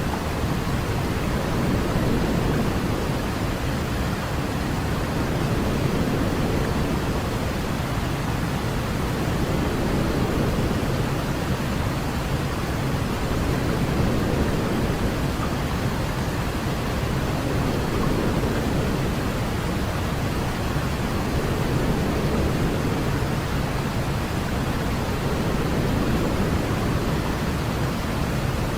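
Steady pink-style noise with more rumble than hiss, the bass heaviest and the treble faint, swelling and easing slightly every few seconds: a baby sleep sound.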